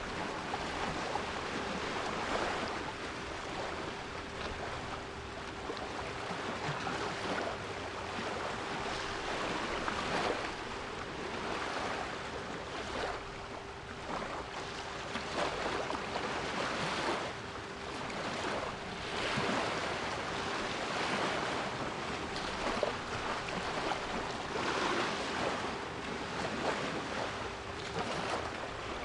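Sea waves washing in, a rushing noise that swells and falls in repeated surges. Under it runs a steady 396 Hz pure tone.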